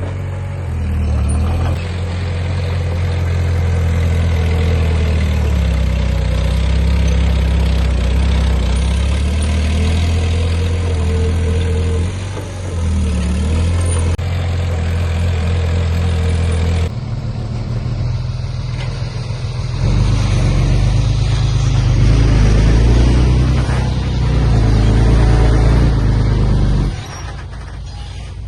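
Heavy diesel engines of earthmoving machinery running and working, a loud low drone throughout. The sound changes abruptly about two-thirds of the way in, grows louder, then drops off suddenly shortly before the end.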